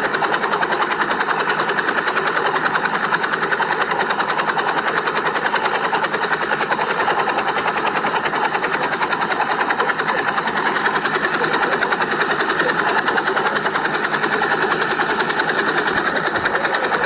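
A small motor running steadily with a fast, even rattle, unchanging throughout.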